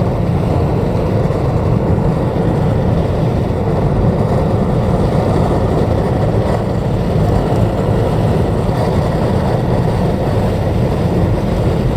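Steady low rumble of a car in motion heard from inside the cabin: engine, tyre and wind noise while driving.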